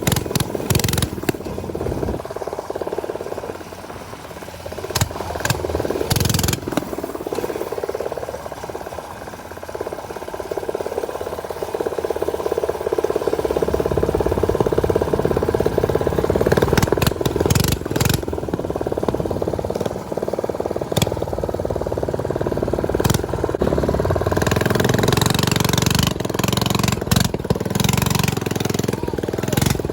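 Small motorcycle engines running steadily while riding, with scattered clicks and knocks over the engine note and heavier rumble and hiss in the last few seconds.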